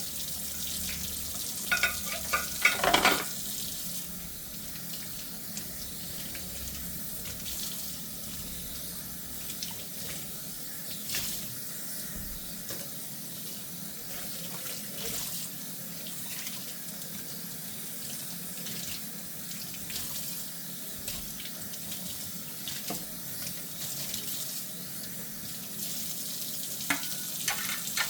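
Kitchen tap running into a sink during hand dishwashing, a steady hiss of water. Dishes knock together with a few sharp ringing clinks about two seconds in, and twice more near the end.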